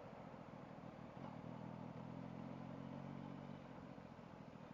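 Faint vehicle engine hum, rising slightly for a couple of seconds in the middle and then fading, over low background noise.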